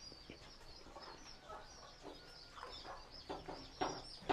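Chickens clucking, with small birds chirping high and continuously behind them. The clucks come louder toward the end.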